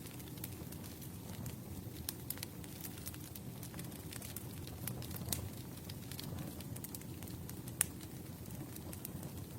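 Campfire burning: a steady low rumble of the flames with scattered sharp crackles and pops, one louder pop near the end.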